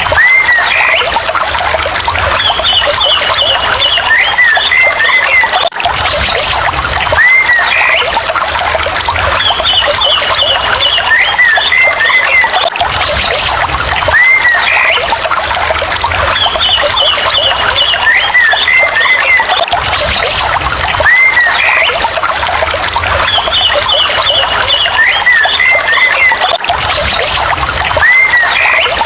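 Looped nature ambience: whistled calls that arch up and down, like birdsong, and a quick higher trill over a steady rushing noise. The same few seconds repeat about every seven seconds, with a brief break at each join.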